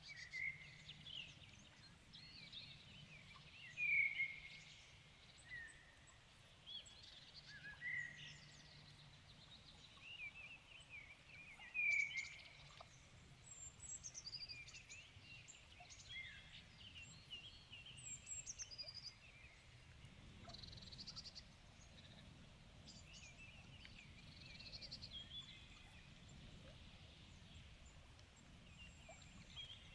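Evening chorus of several songbirds, many short chirps, whistles and warbled phrases overlapping, with the loudest calls about four seconds and twelve seconds in. A faint low rumble runs underneath, growing a little stronger past the middle.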